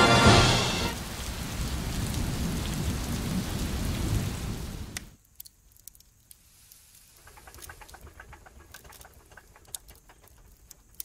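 Music fading out, then a steady rain-like hiss that cuts off suddenly about five seconds in, followed by faint rustling and scattered clicks.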